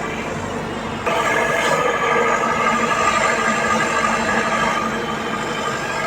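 Hyundai 150L excavator's diesel engine running steadily. It gets louder about a second in and settles back down near the end, as the machine works at loading mud.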